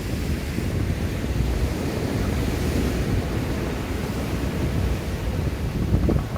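Wind buffeting a smartphone microphone: a steady low rumble with a rough, crackly texture.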